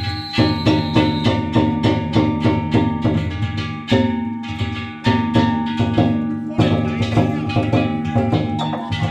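Danjiri festival music (narimono): taiko drums and hand-held kane gongs struck in a fast, steady rhythm, the gongs ringing between the drum beats.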